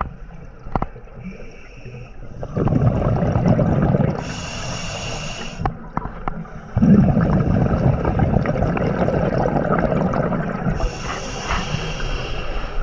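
Scuba diver breathing underwater through a regulator. A short hissing inhale is followed each time by a long gurgling rumble of exhaled bubbles, in a cycle that repeats about every six seconds.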